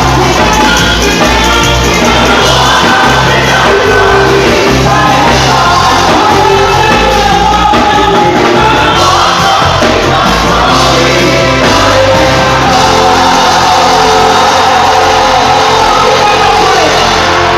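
Live gospel praise music played loud and steady by a band with a strong bass line, with singing over it and shouts from the congregation.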